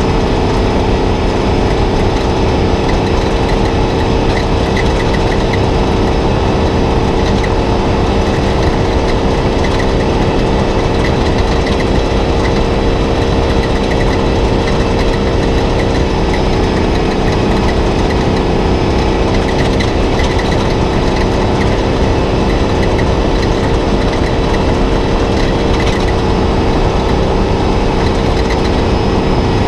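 Spec Trophy Truck's V8 engine running at a steady, unchanging pitch over a constant low rumble, heard from inside the cab.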